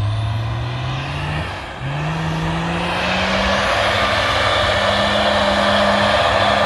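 Motocross motorcycle engine accelerating hard. Its pitch rises, dips at a gear change about a second and a half in, climbs again through the next gear, and then holds at high revs as it grows louder.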